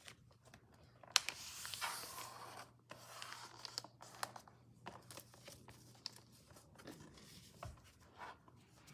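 A sheet of paper being folded edge to edge and creased by hand: faint, irregular rustling and sliding with sharp little crackles, the sharpest about a second in.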